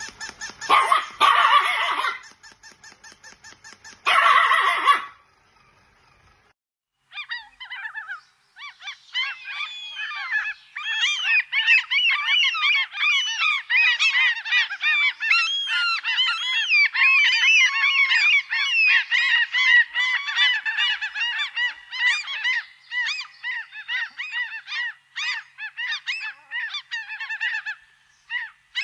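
A flock of geese honking, many calls overlapping in a continuous clamour that thins out into scattered honks near the end. It is preceded near the start by two loud, harsh, noisy bursts.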